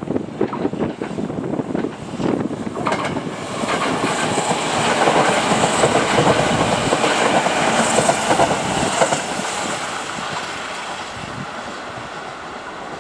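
Kintetsu train passing on the line, its running noise growing louder from about four seconds in, loudest in the middle and fading over the last few seconds.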